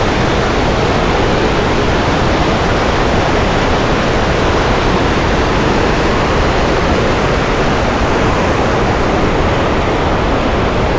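Iguaçu Falls, heavy water pouring over the falls: a loud, steady roar.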